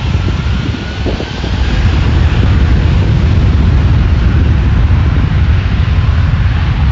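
Jet airliner engines running loud, a deep rumble that grows louder about a second and a half in and then holds, with wind buffeting the microphone.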